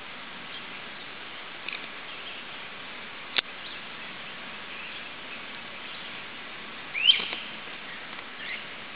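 A few short, high chirps from a small bird over a steady outdoor hiss, the loudest a quick upward-sweeping chirp about seven seconds in. A single sharp click sounds a little after three seconds.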